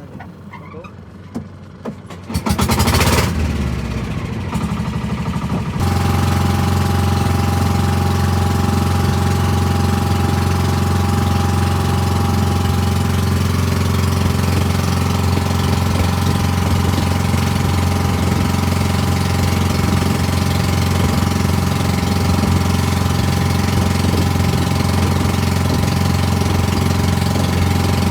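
A pump boat's engine running steadily under way, a loud, even drone with wind and water noise over it. It comes in suddenly about two seconds in and settles to a constant note a few seconds later.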